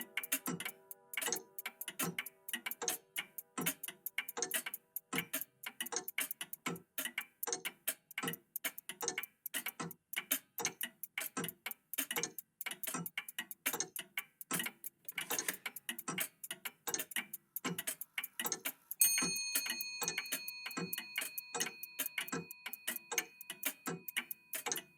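Several old mechanical clocks, a vintage cuckoo clock among them, ticking at once, their ticks overlapping at several a second. About 19 s in, a single bell-like chime strikes and rings on, slowly fading.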